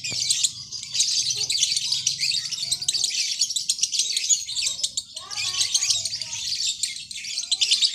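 Lovebird singing its long, rapid, high-pitched chattering song (ngekek) without a break, easing off briefly about halfway through.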